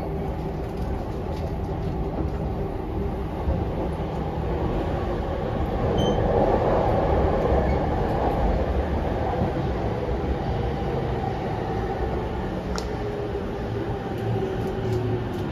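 Running noise of a JR East E231-500 series commuter train heard from inside the passenger car: a steady rumble of wheels on the rails, louder for a couple of seconds in the middle. Near the end a faint whine drops slightly in pitch as the train slows towards the station.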